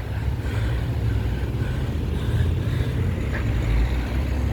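Bus driving close by, its engine a steady low rumble.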